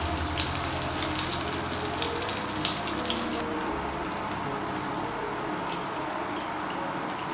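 Tofu cubes sizzling and crackling in shallow hot oil in a non-stick frying pan. The crackle drops away about three and a half seconds in, leaving a softer hiss.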